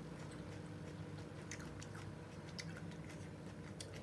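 Close-up chewing of a mouthful of juicy pineapple, with sharp wet mouth clicks in small clusters about one and a half, two and a half and nearly four seconds in. A faint steady low hum runs underneath.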